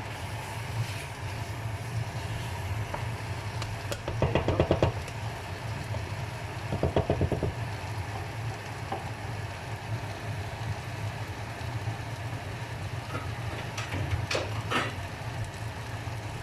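A spoon stirring chicken pieces through thick masala in a metal handi: two short runs of rapid clattering, about four and seven seconds in, and a couple of knocks near the end, over a steady low hum.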